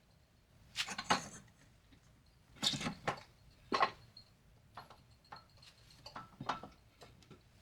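Irregular metal clanks and knocks from a manual tire changer and its steel mounting bar as a tire is worked onto a steel rim: a few sharp hits about one, three and four seconds in, with lighter ticks after.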